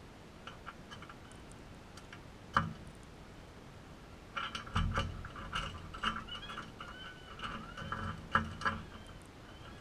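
Crimson rosellas feeding. There is a sharp click about two and a half seconds in, then from about halfway a dense run of clicking and knocking with low thuds, mixed with a few soft, short high chirps.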